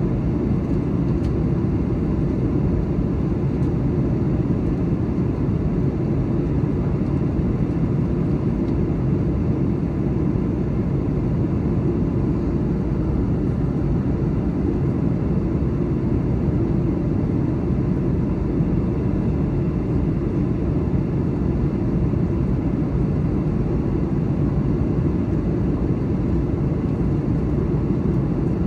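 Steady in-flight cabin noise of a Boeing 737-900: a deep, even rush of airflow and the CFM56 turbofan engines, with a faint steady tone above it.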